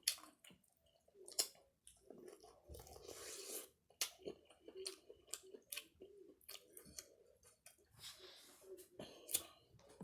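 Close-miked chewing and eating mouth sounds: irregular wet clicks and crunches, with a couple of longer noisy stretches.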